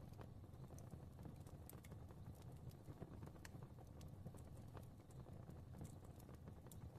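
Quiet fireplace fire crackling: scattered small pops and snaps over a low, steady rumble of flame.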